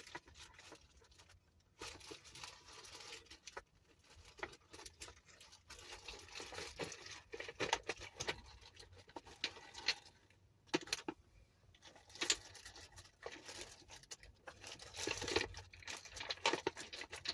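Makeup products being handled and applied close to the microphone: irregular rustling and scratching with many small clicks.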